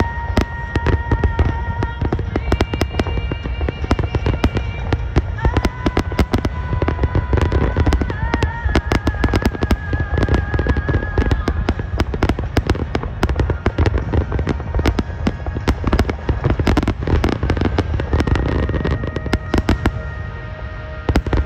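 Aerial fireworks display at full intensity: many shells bursting in quick succession, a dense run of bangs and crackling over a deep rumble. Steady high tones are held over the bangs, changing pitch every few seconds.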